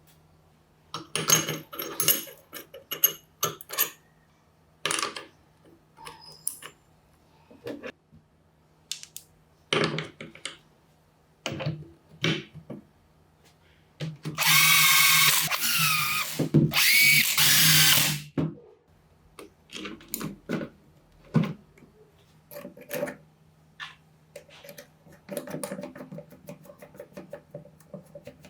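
Electric drill motor running in two short bursts, about two seconds and a second and a half long, about halfway through. Scattered clicks and knocks of tool parts being handled come before and after.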